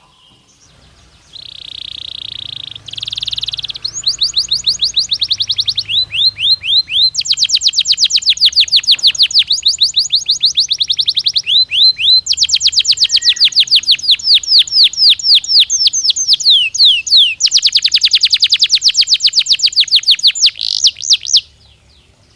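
Domestic canary singing one long, loud song: a buzzy held note, then fast trills of rapidly repeated notes, each roll lasting a couple of seconds before switching to another, cut off sharply near the end.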